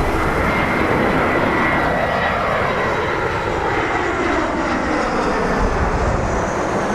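Airliner's jet engines rumbling as the plane passes and moves away, the pitch of the engine tones falling slowly. A steady high whine sits above the rumble.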